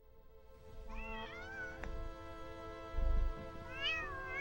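A cat meows twice, about a second in and again near the end, over steady background music. A low thump sounds about three seconds in.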